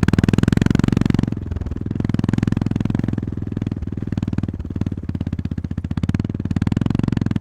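Honda GB350-family motorcycle's air-cooled single-cylinder engine running under way. The throttle eases off about a second in and opens again near the end.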